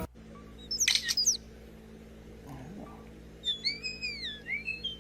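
A bird singing: a few quick high chirps about a second in, then a run of clear whistled notes that sweep up and down.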